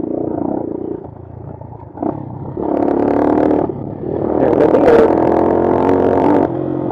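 Bashan Brozz 250 dual-sport motorcycle engine running under the rider's throttle on a dirt trail. It eases off about a second in, then is opened up twice, from about two and a half seconds and again from about four seconds, before dropping back near the end.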